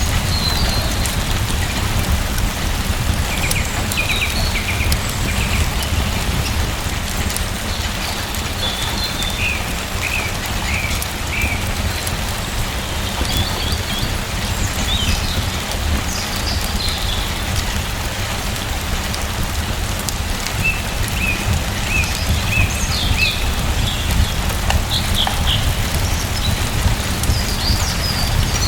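Steady rain falling, with a low rumble beneath it. Short bird chirps come in scattered clusters throughout.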